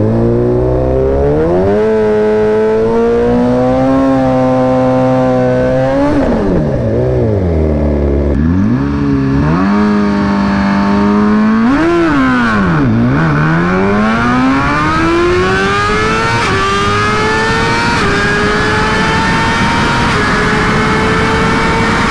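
Suzuki GSX-R1000 inline-four sport-bike engine on a drag run: revved and held, then blipped up and down for several seconds. About 13 seconds in it launches and pulls hard, its pitch climbing steadily with a small dip at each upshift, three times.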